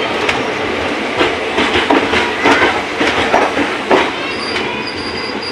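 Indian Railways train running on the track, its wheels clacking over rail joints in an uneven rhythm against a steady rumble. A faint high squeal of wheels on rail comes in about four seconds in.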